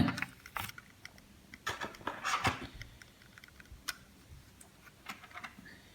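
Scattered light clicks and taps of a small plastic N gauge model coach being handled, a few of them a little sharper than the rest.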